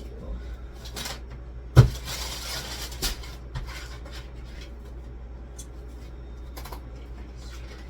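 Kitchen items being handled and set down. A sharp knock comes about two seconds in, followed by a short hiss, then a few light clicks and clatter.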